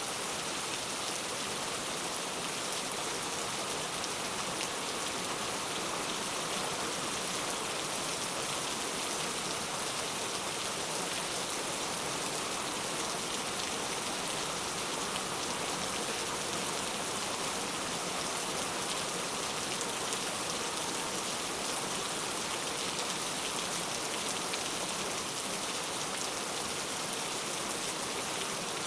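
Steady rain falling, an even hiss with no changes.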